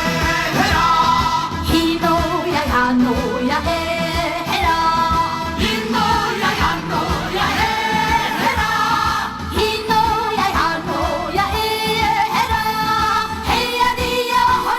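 A woman singing a Korean trot song live, holding long notes over band accompaniment with a steady beat.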